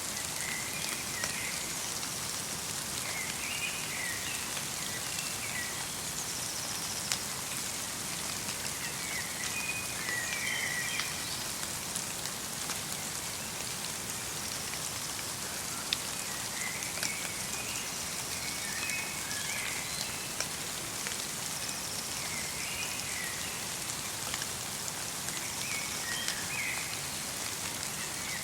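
Light rain falling steadily, with single drops ticking now and then, and a small bird calling in short chirping phrases every few seconds.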